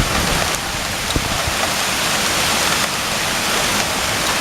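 Heavy rain mixed with small hailstones, about the size of a little fingertip, pelting the ground and roofing in a steady, dense hiss, with a couple of sharper ticks of single hailstone strikes about half a second and a second in.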